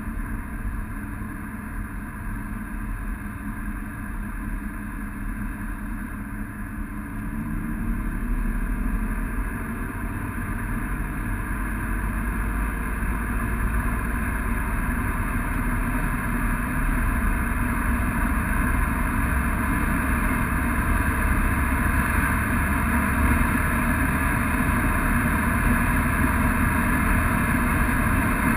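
Chip-tuned Audi A6 C6 3.0 TDI V6 diesel accelerating at full throttle, heard from inside the cabin: the engine note rises and the engine and road noise grow steadily louder as speed climbs toward 200 km/h.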